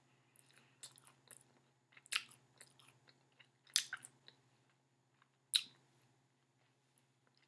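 A person chewing a bite of fried chicken sandwich on a glazed donut bun, with faint crisp crunches and three louder crunches about two, four and five and a half seconds in.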